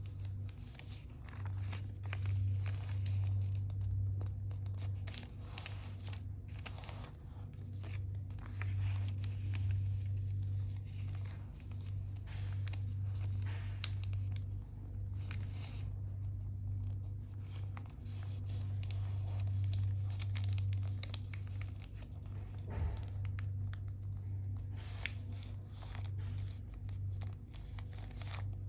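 A sheet of paper being folded and creased by hand: irregular rustles, crinkles and short scrapes, over a steady low hum.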